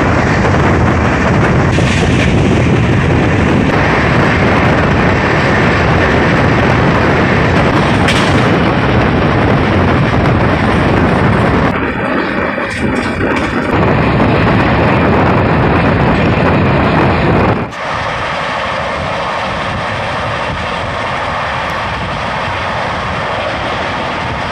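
Loud running noise of the Kaifiyat Superfast Express at speed, heard from aboard: a steady rush of wheels on rail and wind. The sound changes abruptly twice, briefly about halfway and then dropping suddenly to a quieter rush about three quarters through.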